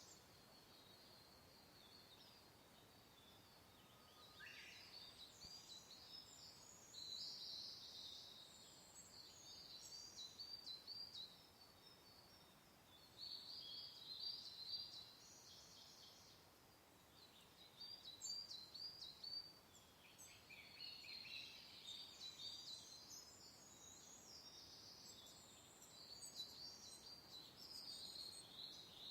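Several small songbirds singing and chirping in bursts of quick, high, repeated notes that come and go. Underneath is a soft, steady hiss of gentle wind.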